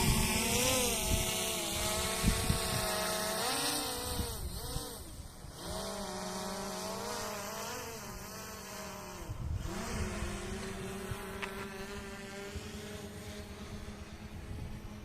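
FIMI X8 quadcopter drone's propellers buzzing, the pitch swinging up and down as the motors change speed, slowly fading as it flies away. Low wind thumps on the microphone.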